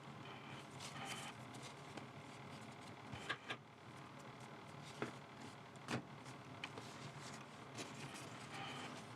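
Yu-Gi-Oh! trading cards being handled and laid out: a handful of soft clicks and taps over a faint steady room hum.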